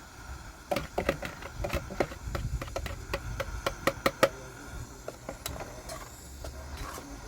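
A quick, irregular run of sharp knocks and clatters, about a dozen in three to four seconds, loudest near the end of the run, followed by a few scattered knocks over a low rumble.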